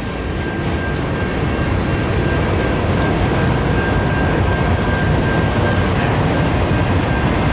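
Freight cars of a long CSX train rolling past at close range: a steady loud rumble and clatter of wheels on rail, with a thin, steady high-pitched tone running through it.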